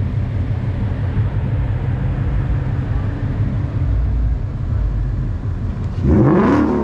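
Mustang engine idling steadily, then revving up briefly, rising in pitch near the end.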